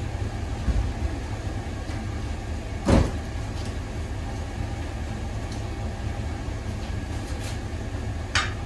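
Chevy truck engine idling steadily, with a single loud clunk about three seconds in and a lighter knock near the end.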